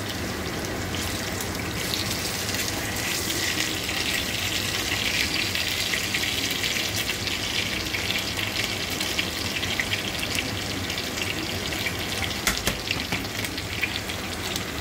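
Pork pieces sizzling and crackling in hot oil in a frying pan. The sizzle grows louder about two seconds in, with a few sharper pops near the end.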